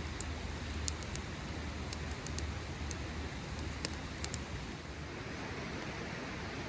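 Steady rain falling, with a scattering of short sharp ticks over the first few seconds.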